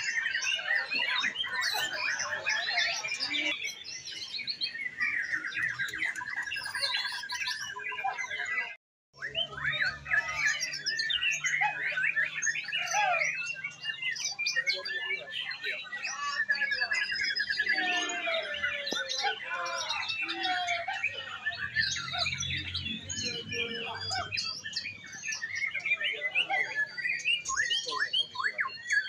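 Many caged songbirds singing at once in a dense chorus of overlapping chirps, trills and whistles, as birds compete at a songbird-singing contest. The sound breaks off for a moment about nine seconds in.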